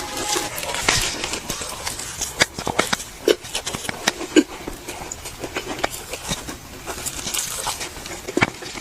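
Close-miked eating: irregular chewing, lip smacks and mouth clicks, with a few louder wet pops.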